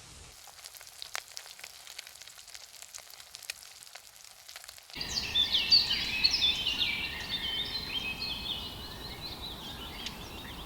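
Food sizzling and crackling over a campfire, faint with scattered sharp pops. About five seconds in it cuts suddenly to birdsong: many quick chirps, loudest just after the change and easing off.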